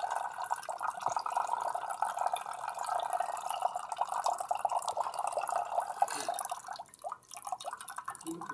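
LG Mini Turbo Drum washing machine draining its wash water, a steady trickling, splashing stream that thins out and weakens about seven seconds in.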